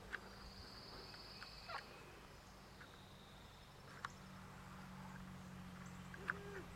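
Faint outdoor ambience: two short high trills of a songbird, one after the other, over a low steady hum that grows slightly louder near the end.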